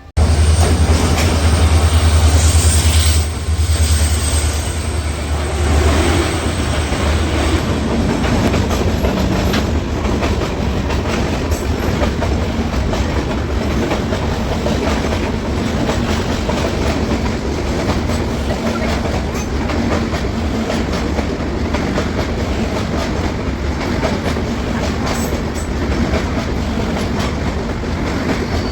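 A train coming through the station. A loud low rumble for the first few seconds as the locomotive passes, then the steady clatter of the carriages' wheels over the rail joints.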